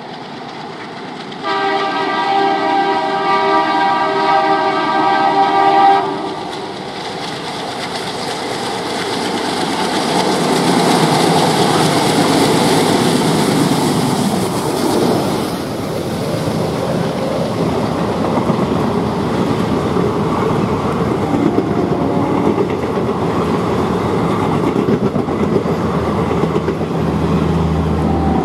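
Diesel-hauled express train running through: one long horn blast from the ALCO WDM-3A diesel locomotive, lasting about four seconds and starting about a second and a half in. Then the loud, growing rush of the locomotive and coaches passing close by with wheel and rail clatter.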